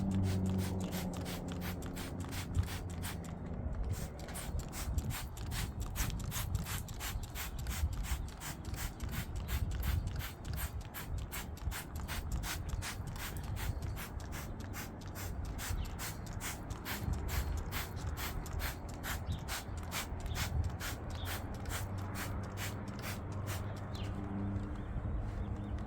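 Rapid back-and-forth scrubbing strokes on a hard surface, about three a second, working vinegar into stuck-on bird droppings to loosen them.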